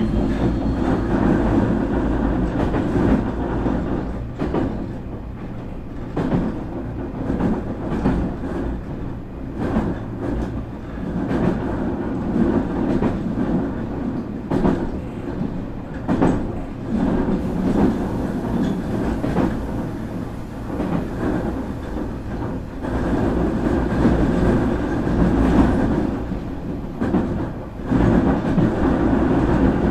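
Nankai 8300 series electric train running on the line, heard from inside motor car Moha 8361: a steady rolling rumble of wheels on rail, with repeated clicks as the wheels pass over rail joints.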